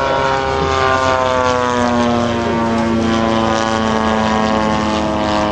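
A large radio-control scale plane's 53cc twin-cylinder gas engine and propeller running steadily in flight. The engine note sinks slightly, then holds level.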